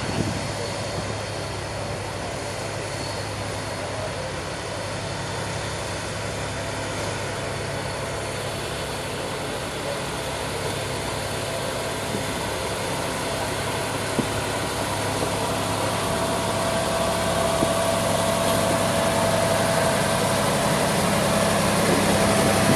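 Diesel engine of a railway track-maintenance machine running steadily with a deep hum. It grows gradually louder through the second half, and a steady higher whine joins in about two-thirds of the way through.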